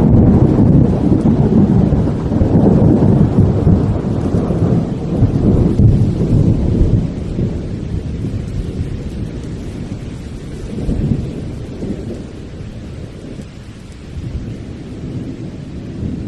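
Thunder rumbling over heavy rain. The rumble is loud for the first several seconds and then dies away, with smaller swells later, while the rain keeps up a steady hiss.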